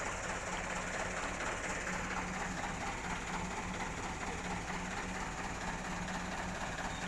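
Truck engine idling steadily, an even low rumble with a constant hum.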